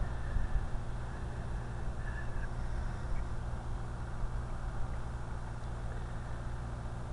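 Steady wind rumble on the microphone, with the faint whine of the radio-controlled model's twin electric motors driving small four-blade ducted props briefly rising above it near the start and about two seconds in.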